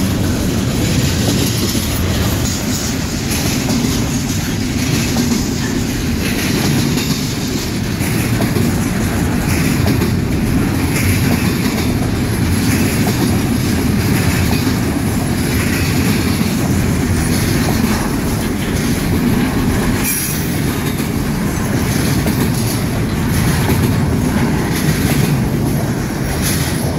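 Intermodal freight train cars rolling steadily past a grade crossing: a continuous rumble of steel wheels on the rails.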